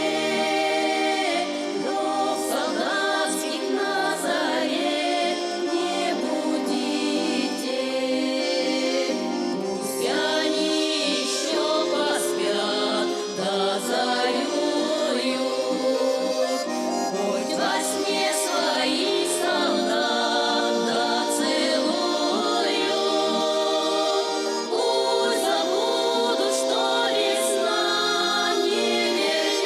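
Russian folk song performed by an ensemble: voices singing together over steady instrumental accompaniment.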